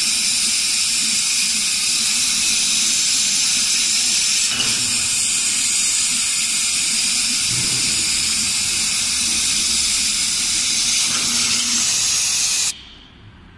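Laser cutting machine running with a loud, steady hiss of air, typical of its air-assist blowing through the cutting head, over a faint low hum. The hiss cuts off suddenly near the end.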